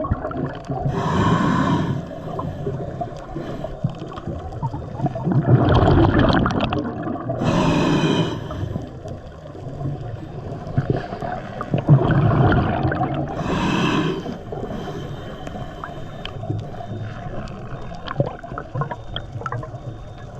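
Scuba diver breathing underwater through a regulator: a hissing inhale about every six seconds (three in all), each followed a few seconds later by a low, bubbling rumble of exhaled air.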